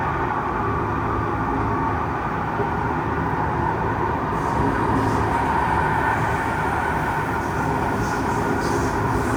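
Kawasaki C151 metro train heard from inside the car, running through the tunnel: a steady rumble of wheels on rail with a continuous tonal whine from the traction motors and gear. From about halfway through, faint high clicks and hiss join in.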